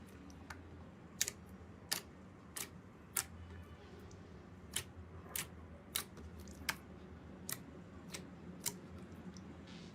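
A series of sharp, crisp clicks, about one every two-thirds of a second with a short pause in the middle, over a faint low hum.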